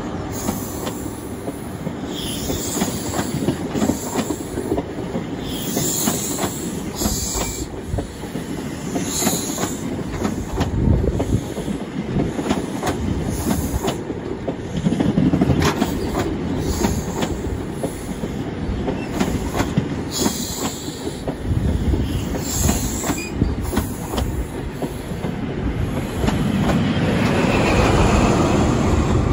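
InterCity 125 HST of Mk3 coaches running past on a curved platform line: wheels clicking over rail joints with repeated short bursts of high flange squeal. Near the end a Class 43 diesel power car comes by and the low rumble swells.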